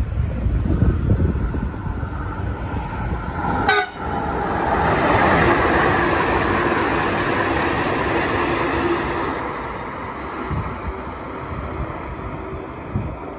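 KTMB electric passenger train sounding its horn on approach, then passing close with a loud rush of wheel and air noise that slowly fades as it runs away down the line. Wind rumbles on the microphone early on.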